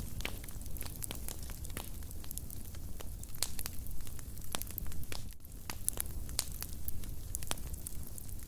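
Wood fire in a fireplace, crackling with many irregular sharp pops and snaps over a low, steady rumble of the flames.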